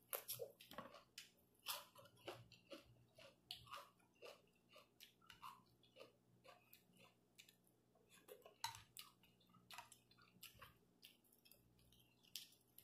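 Faint close-up chewing: a person eating with her mouth full, making soft, irregular wet mouth clicks and smacks several times a second.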